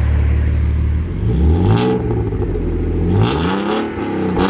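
Alfa Romeo 156 3.0 Busso V6 with an aftermarket sports exhaust, idling steadily, then blipped twice: the exhaust note rises and falls with each rev, starting about a second in.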